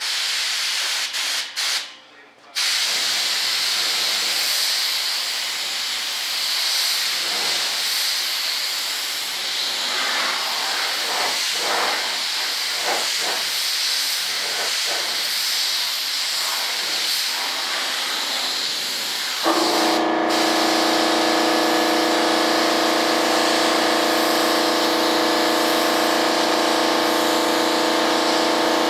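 Primer being sprayed: a steady spray hiss, with a brief break about two seconds in. About two-thirds of the way through, a steady motor hum with several tones starts up under the hiss and keeps running.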